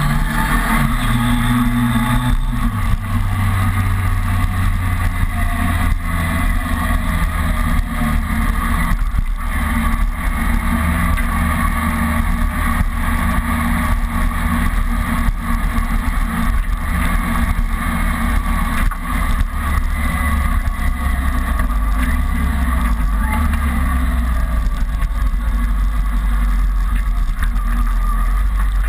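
Kawasaki ZRX motorcycle's inline-four engine under way, pulling up through the revs at first, then dropping to a steady cruise after a gear change about two seconds in, with wind rumbling on the handlebar-mounted camera's microphone.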